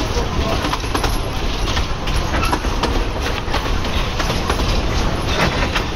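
Train running on the rails: a steady low rumble with many irregular clicks and knocks.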